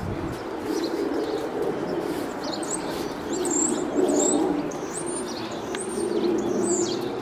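Birds chirping outdoors, short high calls repeating every second or so over a low steady hum.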